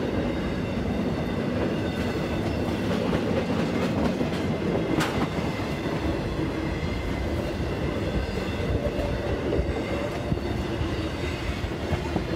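Slow-moving CSX intermodal freight train's flatcars rolling past over a grade crossing: a steady rumble of steel wheels on rail with clickety-clack over the rail joints. One sharp clank about five seconds in.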